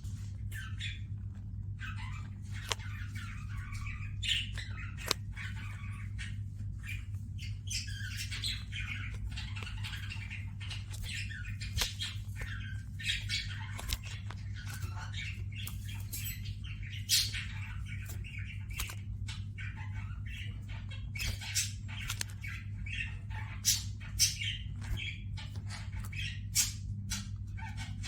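Pet Gouldian finches and budgerigars chirping and chattering, with many short, sharp calls and stretches of warbling budgie chatter, a few calls louder than the rest. A steady low hum runs underneath.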